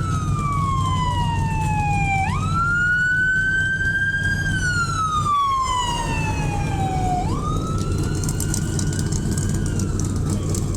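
Emergency vehicle siren on a slow wail: the pitch jumps up, climbs a little, then falls slowly, repeating about every five seconds, over a steady low hum.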